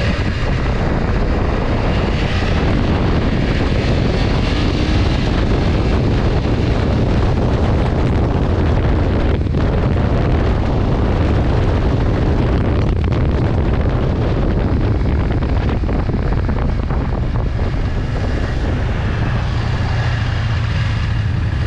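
Motorcycle being ridden on the road, its engine running steadily under a heavy rush of wind noise on the microphone.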